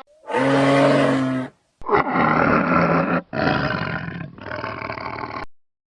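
A large animal calling loudly four times. The first call is pitched and held for about a second; the next three are rough and noisy, each about a second long, with brief gaps between them.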